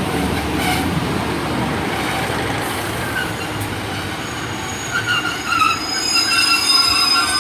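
Class 150 Sprinter diesel multiple unit running into the platform with a steady rumble, its brakes squealing in several high tones from about five seconds in as it slows to stop.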